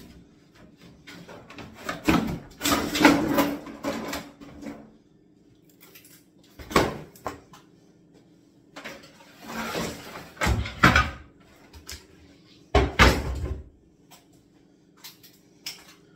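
Kitchen cabinet units being broken apart and flattened by hand: a cluster of knocks and cracks about two seconds in, a sharp bang near the middle, a clatter of panels with heavy thuds a little later, and another bang near the end.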